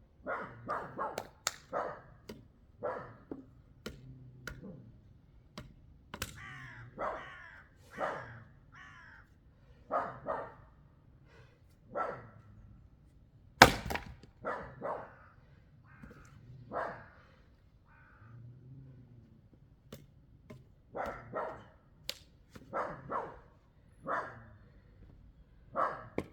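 Repeated short, harsh animal calls in irregular clusters. About halfway through there is a single loud, sharp axe strike into wood, with a few lighter knocks around it.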